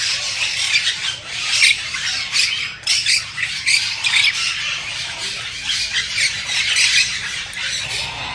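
A large flock of parakeets chattering and squawking, with many overlapping calls and no break.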